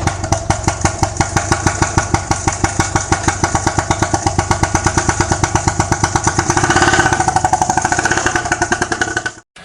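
Bajaj auto-rickshaw engine running with a rapid, even pulsing beat. It grows louder about seven seconds in and cuts off abruptly near the end.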